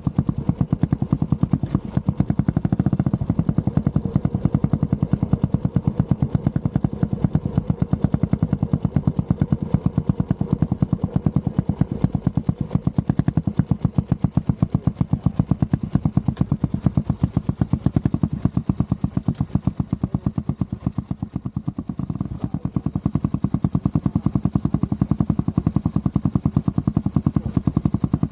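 Honda CB400SS air-cooled single-cylinder engine running under way, an even rapid train of exhaust pulses, easing briefly about three quarters of the way through before picking up again.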